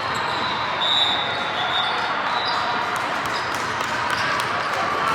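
Basketball game noise in a gym: ball bouncing and a steady murmur of crowd and players, with short high squeaks in between.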